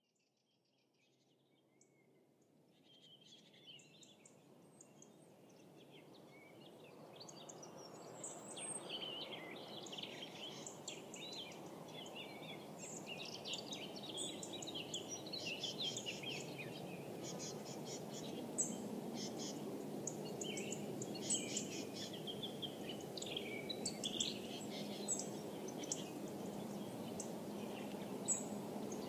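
Birdsong: many small birds chirping and twittering over a steady low outdoor rush, fading in from silence over the first several seconds.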